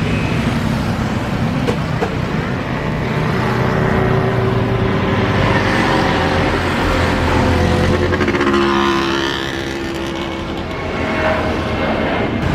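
Jet airliner passing low overhead, its engine noise steady and loud, with a whine that sweeps down in pitch and back up as it goes by about nine seconds in.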